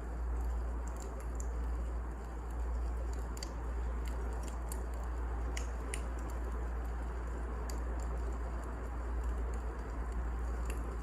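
Wood fire burning in a fireplace: a steady low rumble and hiss with scattered sharp crackles and pops at irregular moments.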